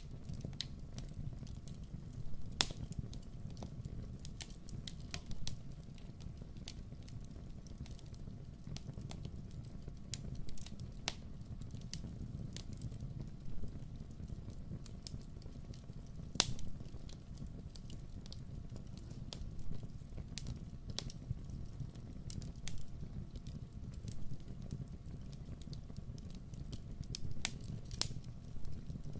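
Wood fire crackling in a fireplace: a steady low rumble of flame with scattered sharp pops and snaps, two of them louder, about three seconds and sixteen seconds in.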